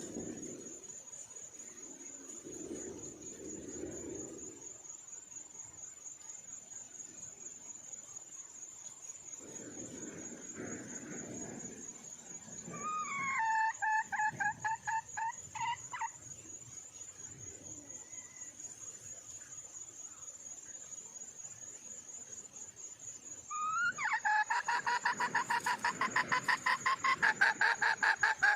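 Red junglefowl hen calling: a run of rapid, evenly repeated clucking notes lasting about three seconds near the middle, then a longer, louder run of about five seconds near the end, each starting on a rising note. A steady high-pitched whine runs underneath throughout.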